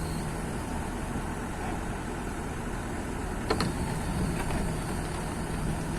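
Kobelco excavator's diesel engine running steadily, with a single sharp metallic knock about three and a half seconds in.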